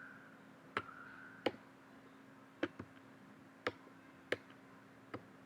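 Six sharp, irregularly spaced clicks of a computer mouse and keyboard as a 3D model is moved, over a faint steady hum.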